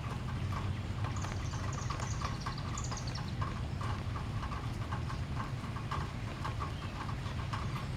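Rapid, irregular clicking of a bird's beak cracking sunflower seeds on a feeder, over a steady low hum. About a second in, a songbird gives a falling series of high notes lasting a couple of seconds.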